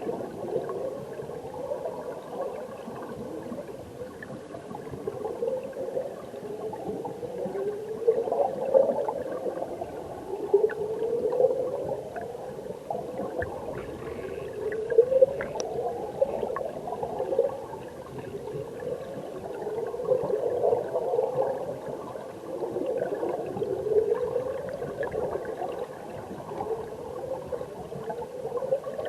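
Mountain stream current heard underwater through a submerged camera: a steady churning gurgle of water and bubbles that swells in rising sweeps every two to three seconds, with a few faint ticks.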